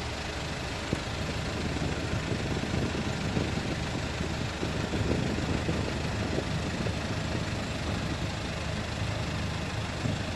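Dump truck's diesel engine running steadily, slowly getting a little louder, with irregular low knocks and rattles mixed in.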